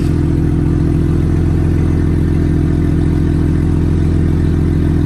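BMW M240i's turbocharged straight-six idling steadily through a titanium aftermarket exhaust: a loud, even, low drone.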